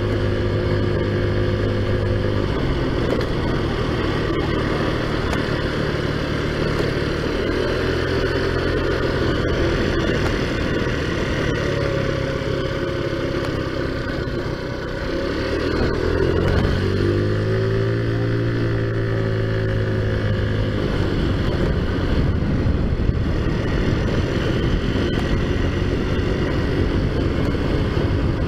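A TaoTao Zummer 50cc scooter's four-stroke single running at riding speed through an aftermarket exhaust, a steady engine drone. It eases off briefly about halfway through, then picks back up as the throttle opens again.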